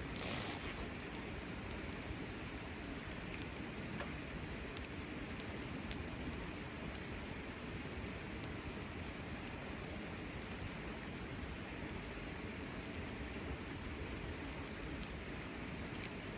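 Wood campfire crackling: a steady hiss with irregular sharp pops and snaps scattered throughout.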